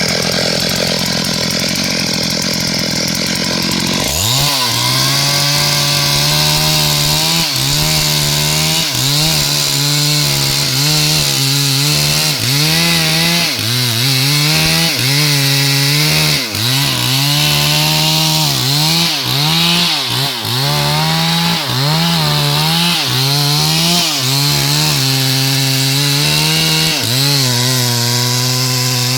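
Two-stroke chainsaw cutting through wood at high revs. A rougher, noisier sound for the first four seconds gives way to a steady engine note whose pitch dips and recovers about once a second as the chain bogs under load in the cut and picks back up.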